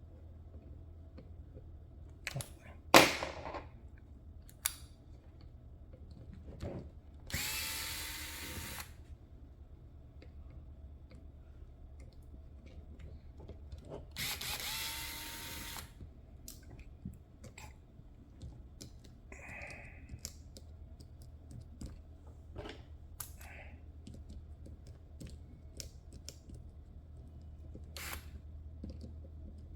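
Electric screwdriver running twice, each time for about a second and a half, while parts are taken apart. Around it are a sharp knock about three seconds in and scattered clicks of parts and tools being handled, over a low steady hum.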